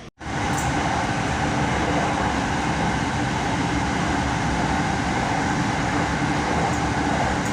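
Electric passenger train running steadily, heard from inside the carriage: a loud, even rumble of wheels on rail with a faint whine.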